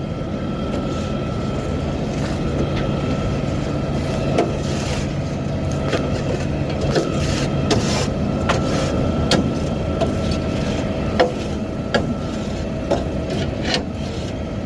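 Garbage truck engine running with a steady whine while the load is emptied at the dump, with scattered clanks and knocks throughout.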